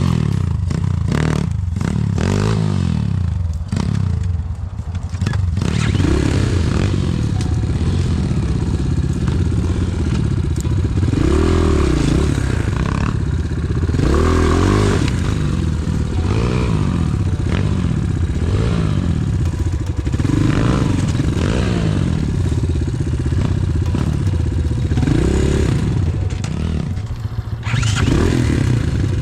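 Pit bike's single-cylinder engine revving up and down again and again, each burst of throttle rising and falling in pitch, as it works along a rough trail. Knocks and clatter come mostly in the first few seconds.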